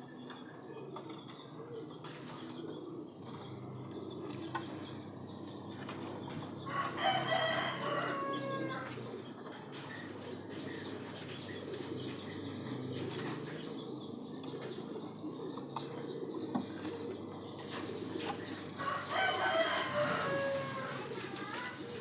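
A rooster crowing twice, each crow a long pitched call of about two seconds, the first about seven seconds in and the second near the end.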